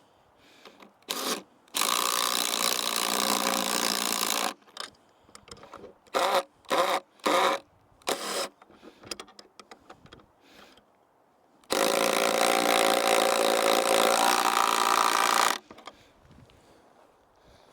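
A power drill runs in two long bursts of about three and four seconds, with several short trigger pulls between them, as it drives fasteners home.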